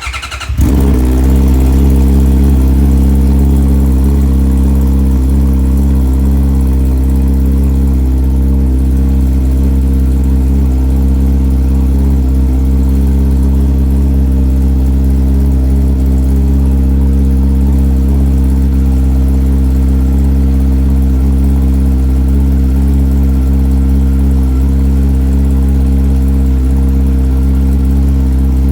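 Honda CBR650R's inline-four engine breathing through an Akrapovic full exhaust, cold-started: it fires at once and settles into a steady idle.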